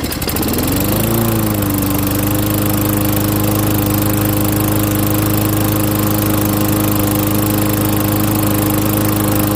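Craftsman lawn mower's Tecumseh engine just caught and revving up, its pitch overshooting in the first second before settling into steady running at full throttle. It runs without an air filter, on fuel helped along by starting spray.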